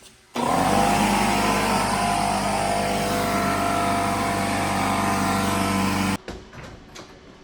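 A vehicle engine running loudly at a steady speed for about six seconds, cutting in and out abruptly.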